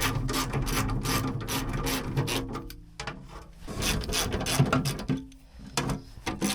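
Hand ratchet wrench clicking in quick runs as bolts holding a cover on an old Ford 555 backhoe are worked loose, with short pauses twice.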